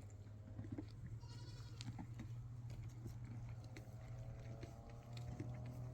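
Small livestock bleating over a steady low hum, with a short high call about a second in and a longer faint call in the second half.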